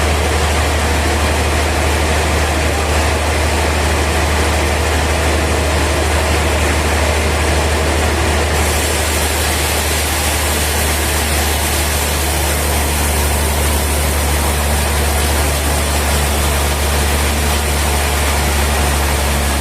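Heavy sawmill machinery running steadily: a loud, even low drone with a wash of mechanical noise. About eight seconds in, the high hiss brightens.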